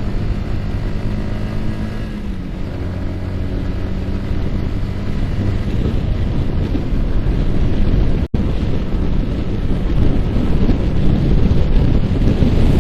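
Yamaha R15's single-cylinder engine running while riding, its note dipping slightly about two seconds in, with wind rushing over the microphone growing louder and covering the engine in the second half. The sound cuts out for an instant about eight seconds in.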